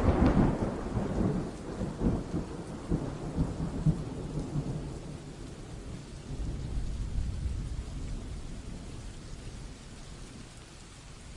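A thunderclap rumbling and rolling away over a steady hiss of rain, loudest at the start and fading out over several seconds, with a lower swell of rumble about halfway through.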